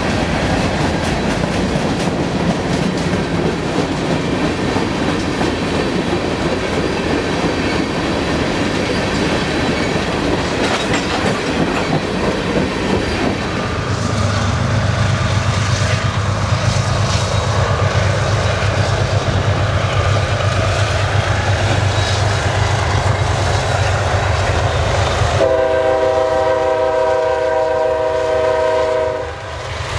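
Freight cars rolling past with steady wheel rumble and clatter. About halfway through, the heavy low drone of CSX diesel locomotives takes over, and near the end a locomotive air horn sounds one long chord-like blast lasting about three and a half seconds.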